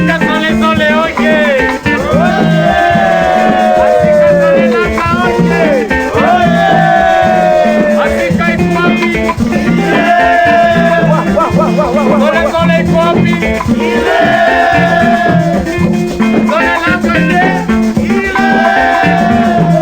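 Tanzanian dance-band recording in an instrumental stretch: a melodic lead plays repeated phrases that bend and slide, every few seconds, over a steady bass-and-rhythm groove with a shaker.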